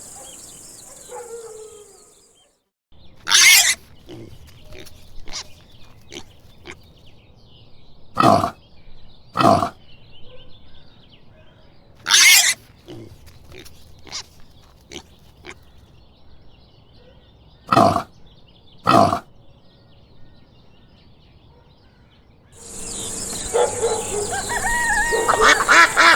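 Pigs grunting with short, loud squeals breaking in about six times. Near the end a denser run of overlapping calls starts.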